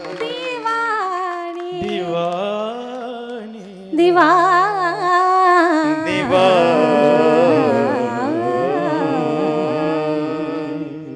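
Devotional kirtan singing: a solo voice holding long, ornamented, wavering notes over a steady drone, getting louder about four seconds in.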